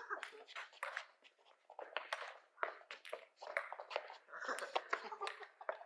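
Ping pong ball clicking sharply off paddles and table in a rally, several irregular clicks a second.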